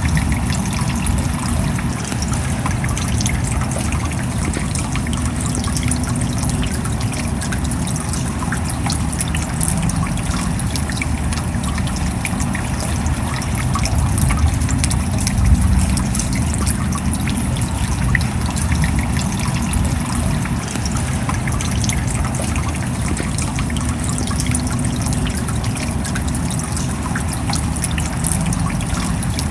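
Steady rain: a constant low rush of water with many small drop ticks scattered through it, unchanging throughout.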